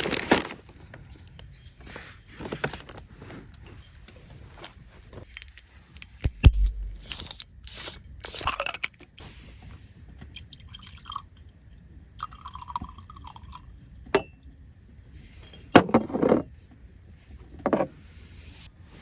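Firewood catching in a homemade wood-burning stove: scattered crackles and small pops, broken by a few louder knocks, the heaviest a dull thump about six and a half seconds in.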